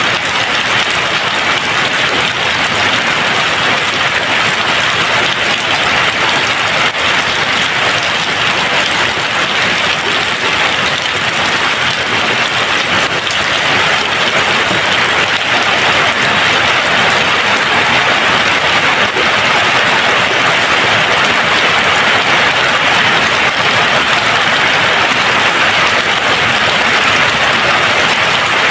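Steady rain falling in an even, unbroken hiss, with no thunder.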